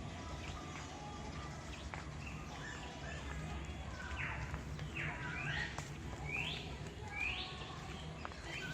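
Birds calling: faint scattered chirps, then from about halfway a series of loud upward-sweeping calls repeated roughly once a second, over a steady low hum.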